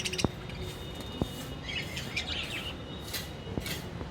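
Lovebirds chirping in short, scattered bursts of high tweets, with a few soft clicks in between.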